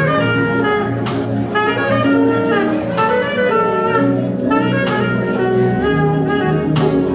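Live jazz band with a saxophone solo: the saxophone plays a melody of held and moving notes over drums and a sustained band accompaniment.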